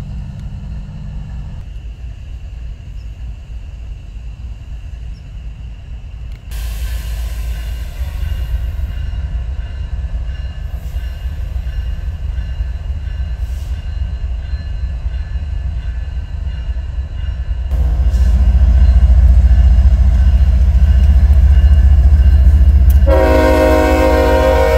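Approaching freight train's diesel locomotives rumbling, getting louder in two steps as the train nears. The locomotive's air horn starts blowing near the end.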